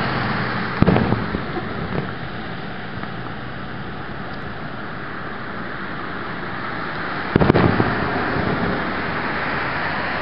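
Two fireworks going off, one about a second in and another about seven and a half seconds in, each a sudden boom that dies away briefly, over steady background noise.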